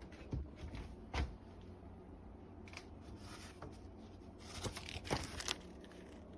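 Scattered sharp clicks and knocks, with a brief patch of rustling, over a low steady hum. A cluster of them comes near the end.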